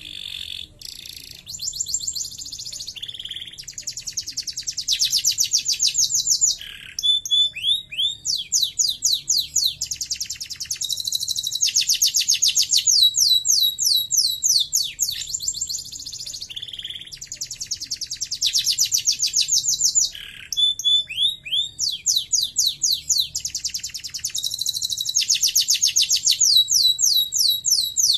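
Domestic canary singing a long, high-pitched song of fast trills, each phrase a rapid run of repeated notes lasting a second or more, broken by quick sweeping notes and short pauses.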